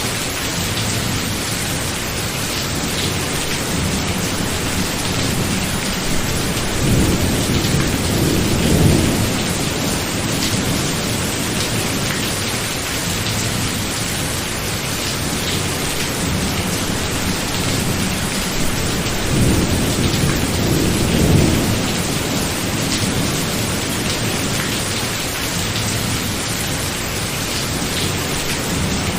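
Thunderstorm: steady heavy rain hiss, with two low thunder rumbles swelling up, one about seven seconds in and another about twenty seconds in.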